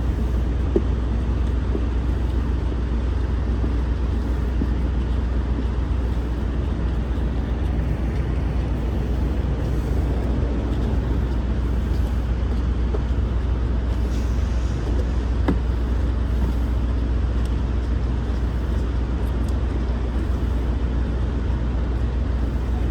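Steady low rumble of an idling semi truck's diesel engine, holding even throughout, with a faint click or two.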